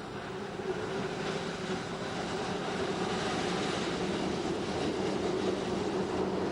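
Appenzeller Bahn metre-gauge electric train running along the track, a steady rolling noise with a low motor hum, rising in level over the first second and then holding steady.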